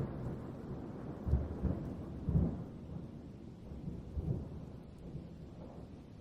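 Thunder rumbling low, with louder surges at about one and a half and two and a half seconds in, then easing off. Rain falls steadily beneath it.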